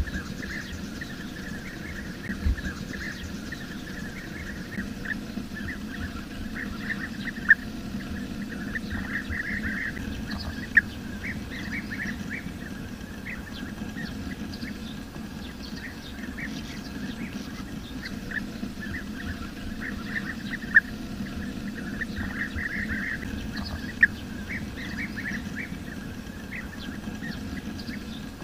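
Bee-eaters calling in the wild: many short, repeated chirping calls, coming in clusters, over a steady low background rumble, with a few sharp clicks.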